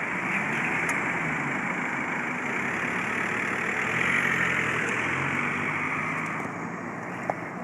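Road traffic: a car's engine and tyre noise, swelling about four seconds in and then easing off.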